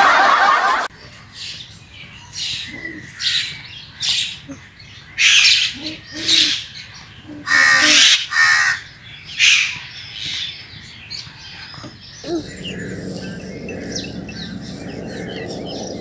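Birds calling: a string of loud, separate calls roughly once a second. A brief loud rush of noise comes at the very start, and a steady low hum sets in about twelve seconds in.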